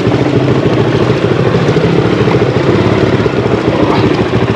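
Honda CRF450L's single-cylinder four-stroke engine idling steadily.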